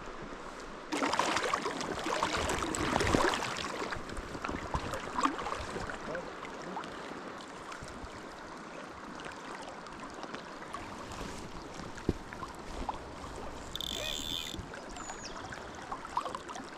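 River water running steadily, with a louder stretch of splashing from about a second in that lasts about three seconds. A brief high hiss comes near the end.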